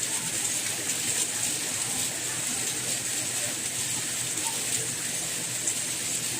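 Steady soft rain: an even, unbroken hiss with faint scattered patters of drops.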